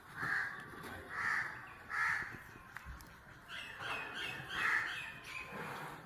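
A bird cawing outdoors: three harsh caws about a second apart, then a quick run of shorter, higher calls with one more caw among them near the end.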